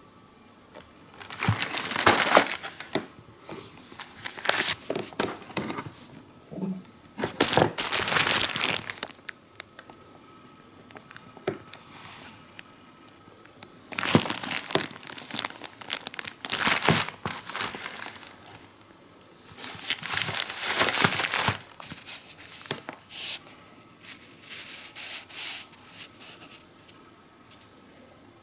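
Packaging being handled and torn open, crinkling and tearing in repeated bouts of a second or two with short pauses between.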